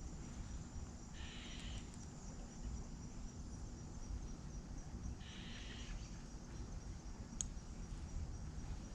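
Faint creekside ambience: a steady high insect drone with two short buzzes about four seconds apart, over a low rumble of wind on the microphone.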